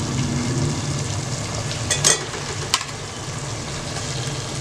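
Masala gravy sizzling steadily in a stainless steel pot on the stove. A few sharp knocks about two seconds in and again shortly after as fried chicken pieces go into the pot.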